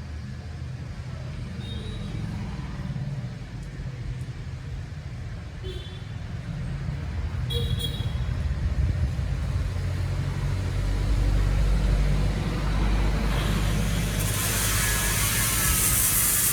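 A heavy engine rumbling steadily and growing louder, with a loud hiss coming in near the end.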